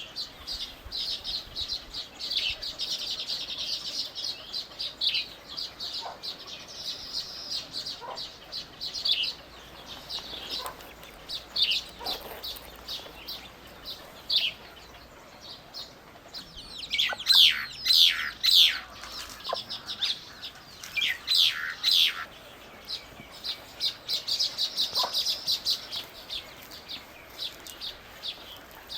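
Small birds chirping: quick runs of short high chirps, with a cluster of louder, steeply falling calls in the middle.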